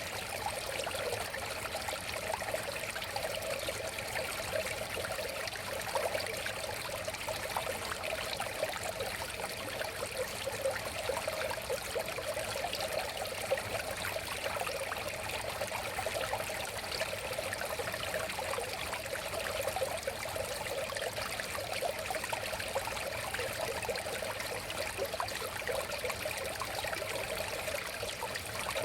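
Shallow river flowing and splashing steadily, a continuous burble of water over stones with no change in intensity.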